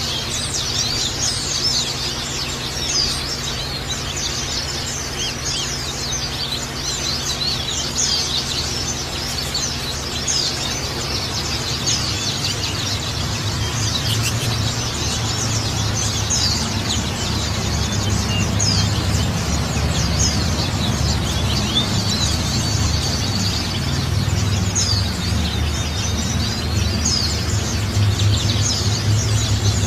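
Oriental white-eyes (pleci) twittering with many rapid, high chirps over continuous trickling water. A low hum underneath grows louder in the second half.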